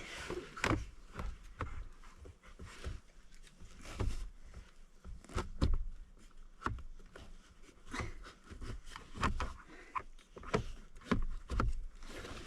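Irregular clicks, taps and knocks of hard plastic and metal parts being handled and pushed together as a truck's heater blower motor is worked back into its housing.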